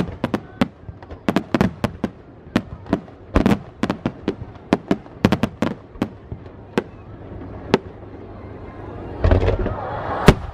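Aerial fireworks shells bursting close overhead: a rapid, uneven run of sharp cracks and bangs for about seven seconds, then a lull, a deep heavy boom a little after nine seconds, and a single sharp crack near the end.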